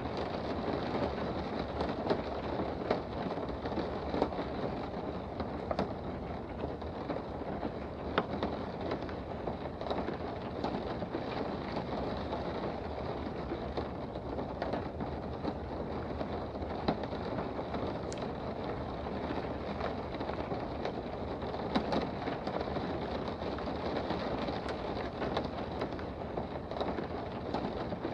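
Steady rain heard from indoors: an even wash of rainfall with scattered sharper drop ticks throughout.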